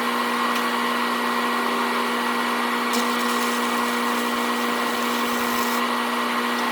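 Angle grinder fitted with a wire wheel running steadily at a constant pitch, brushing a weld clean.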